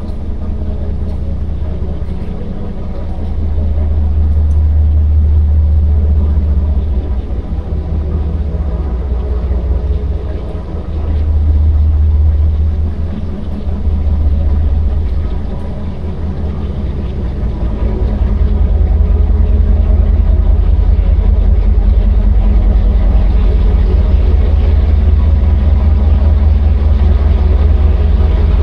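Low, continuous engine rumble that swells and eases several times, then holds steady and louder for the last ten seconds or so.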